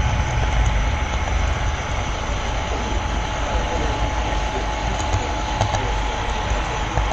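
Model railroad train with a camera car running along the track, heard up close: a steady rolling rumble with a faint steady whine and a few light clicks.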